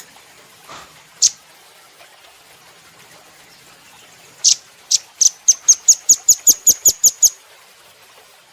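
Velvet-fronted nuthatch calling: one sharp, high note about a second in, then a rapid run of about a dozen sharp, high notes that speeds up slightly over nearly three seconds.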